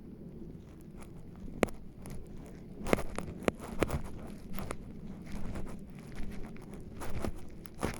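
Footsteps crunching through forest-floor litter. Irregular crunches and snaps begin about a second and a half in and come more often from about three seconds in, over a low steady rumble.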